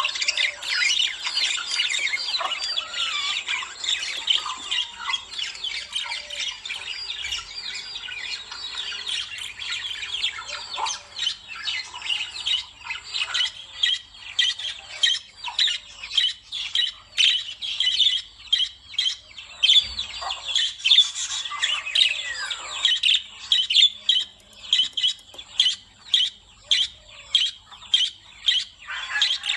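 Lovebirds chattering and squawking, a dense stream of high, shrill chirps. In the second half it turns into loud calls repeated about twice a second.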